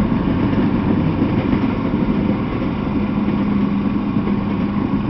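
Freight train of tank cars rolling past: a steady rumble of steel wheels on the rails, with a low hum running under it.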